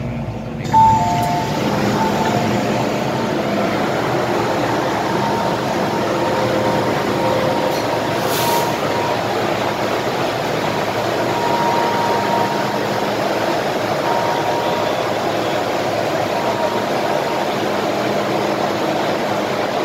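MTR Island Line M-Train running on the line, a steady rumble of wheels on track with faint, thin whining tones over it. The noise starts suddenly about a second in, with a brief loud peak at that moment.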